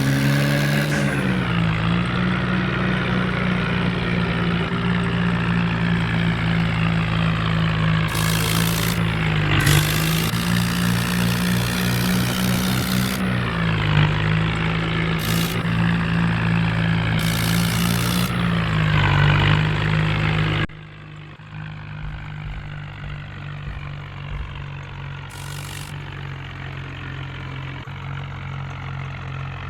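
HMT 5911 tractor's diesel engine running while pulling a loaded trolley, its engine speed rising and falling. About 21 seconds in, the sound abruptly drops much quieter, and a steady engine tone carries on.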